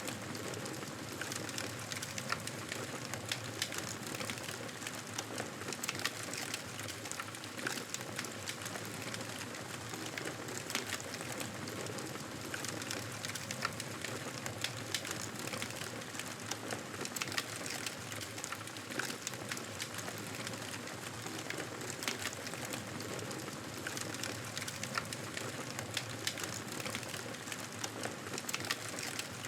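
Campfire crackling: a steady hiss of burning with many small, irregular pops and snaps.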